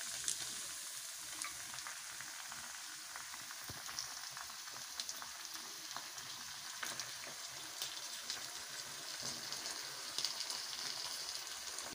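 Raw kidneys frying in hot oil and ghee among browned onions and garlic in a frying pan: a steady sizzling hiss dotted with small spattering pops. A slotted spatula spreads the kidneys through the pan as they start to cook.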